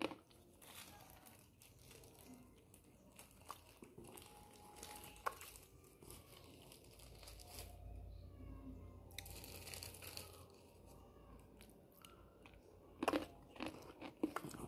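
A crunchy snack being bitten and chewed, a run of crisp crunches, with a cluster of louder crunches about thirteen seconds in.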